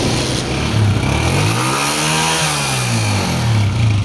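Honda CG125's single-cylinder four-stroke engine revving: the note rises and falls back over about two seconds, with wind noise. The bike is the owner's, who says it misfires and cannot pick up speed.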